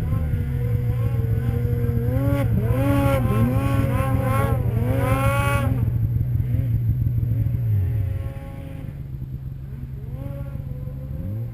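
Snowmobile engines running, with a series of quick revs rising and falling for a few seconds in the middle. About eight seconds in, the steady engine note falls away and the sound gets quieter.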